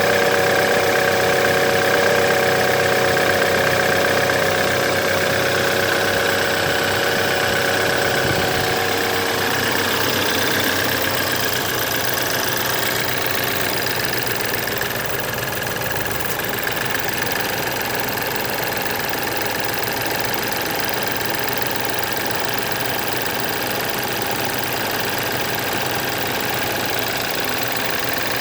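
BMW N20B20 2.0-litre turbocharged four-cylinder engine running steadily with timing chain noise, the sign of a worn timing chain due for replacement. A steady whine is strongest in the first ten seconds, then fades a little.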